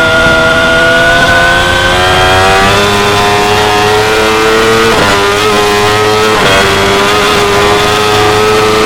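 2016 Yamaha R6's 599 cc inline-four engine revving hard under acceleration, its pitch climbing steadily, then dropping twice, about five and six and a half seconds in, as the rider clicks up through the gears and the revs build again.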